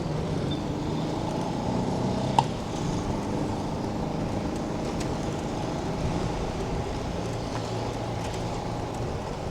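Steady road and traffic noise heard while riding a bicycle, with one sharp click about two and a half seconds in.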